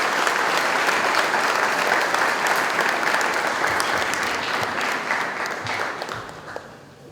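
Audience applauding in a hall, a dense steady clapping that thins out and dies away over the last couple of seconds.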